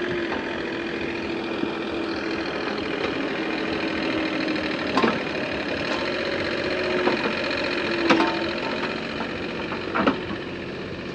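Excavator's diesel engine running steadily while it digs, with a wavering whine. Three sharp knocks come about 5, 8 and 10 seconds in.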